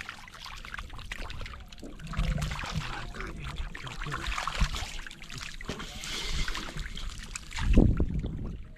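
Water splashing and trickling in shallow water, with small clicks and low thuds, the loudest thud near the end.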